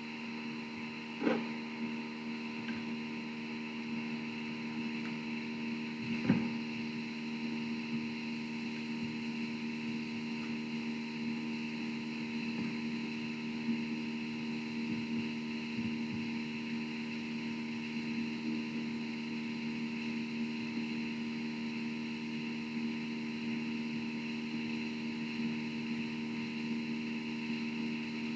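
Steady electrical hum and buzz made of several held tones, from the audio feed's sound system, typical of the sound fault the recording suffers from. Two short knocks come about a second in and again around six seconds.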